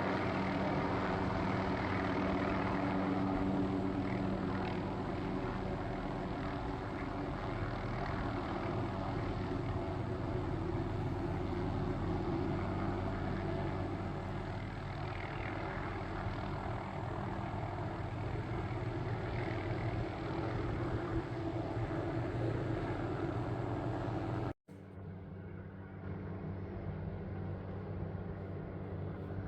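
Helicopter engine and rotor drone, steady with a low hum. About 25 seconds in it cuts out for an instant, then returns quieter and duller.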